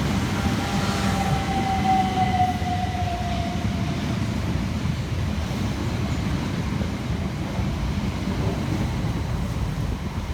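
Two coupled Class 377 Electrostar electric multiple units arriving, with a steady rumble of wheels on rail. A motor whine drops slightly in pitch and fades over the first four seconds as the train slows.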